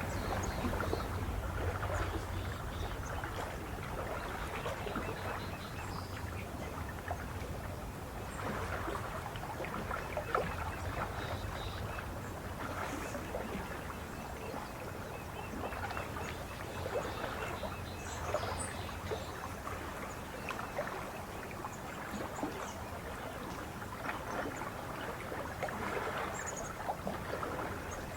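Small lake waves lapping and splashing at the shore, in gentle surges that swell and ease every few seconds. A few faint, short, high bird chirps come through now and then.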